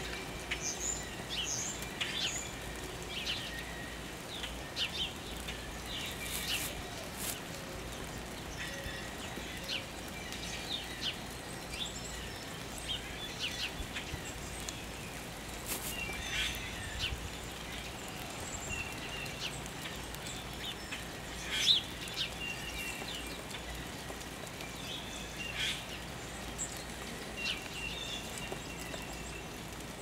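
Small songbirds chirping in short, scattered calls over a steady outdoor hiss, with a few sharp clicks, the loudest about two-thirds of the way through.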